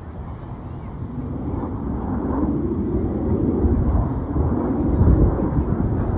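Aircraft flying past, its engine noise a rushing rumble that swells to a peak about five seconds in.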